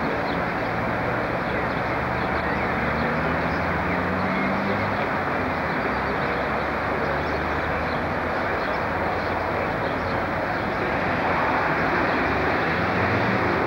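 Passenger train moving slowly through a station: a steady rumble with a low hum that rises in pitch about four seconds in.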